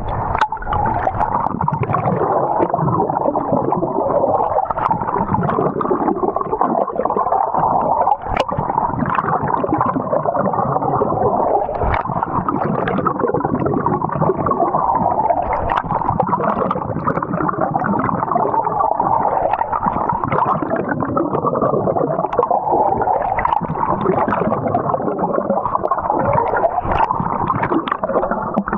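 Continuous muffled gurgling and sloshing of water, churning without a break.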